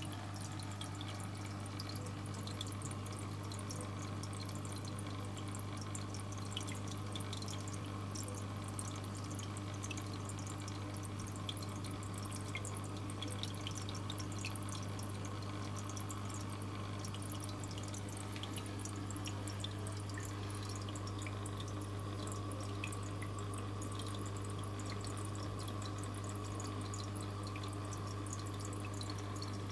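Aquarium water trickling and dripping, with many small splashes, over a steady low hum.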